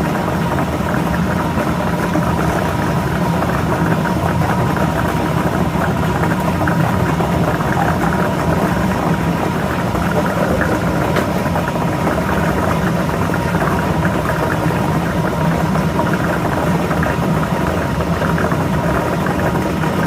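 Lottery ball drawing machine running: a steady blower hum with numbered balls rattling and clicking continuously as they are mixed.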